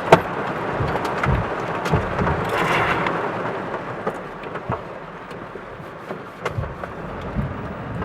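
Heavy rain from a sudden tropical downpour falling hard and steady, with a swell about two and a half seconds in and several short low thumps scattered through it.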